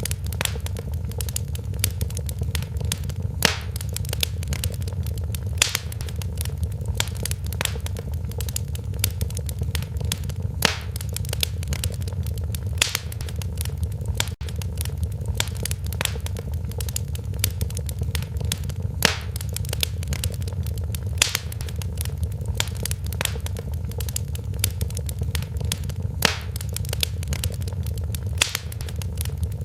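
Fireplace fire crackling: a steady low rumble of flames under dense small crackles, with louder sharp pops every two or three seconds.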